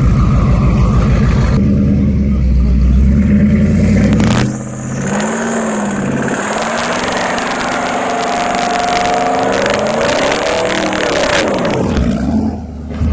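Loud race pickup truck engine running with a deep, steady rumble for about four seconds. After a brief break, an engine accelerates, its pitch rising and falling repeatedly as it pulls through the gears for about seven seconds, then drops off near the end.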